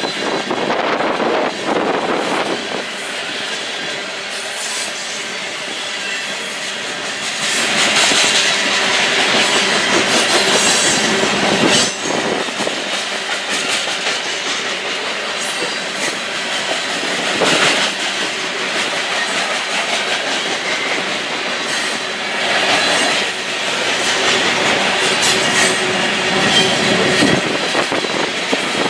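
BNSF freight train's covered hopper cars rolling past, steel wheels clicking and rumbling on the rails in a steady rush that swells as each car goes by. A thin, high wheel squeal comes and goes now and then.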